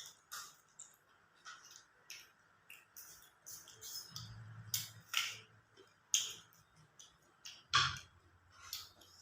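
A person eating raw shrimp in fish sauce close to the microphone: wet chewing and lip smacks, irregular short clicks a few times a second, with a brief dull thump about four seconds in and another near the end.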